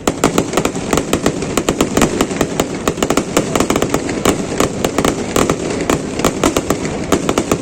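Fireworks display: a dense, rapid run of sharp bangs and cracks, several a second, that starts abruptly and keeps going without a break.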